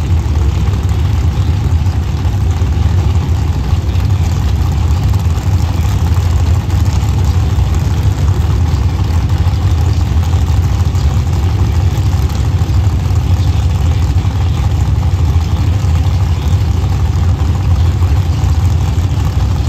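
A vehicle engine running steadily at idle, a constant low rumble with no revving.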